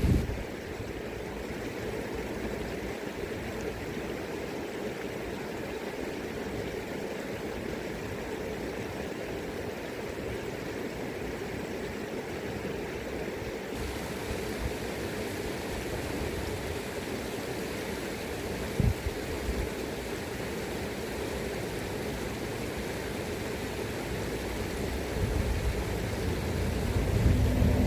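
Steady rush of a river's flowing current, with wind rumbling unevenly on the microphone and growing stronger near the end. A brief thump comes about two-thirds of the way in.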